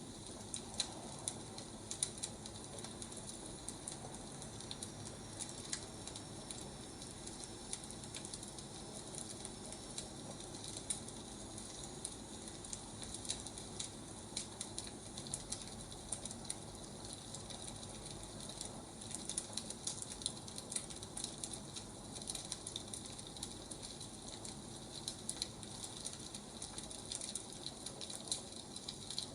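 Firewood burning, with a steady soft hiss and frequent small crackles and pops.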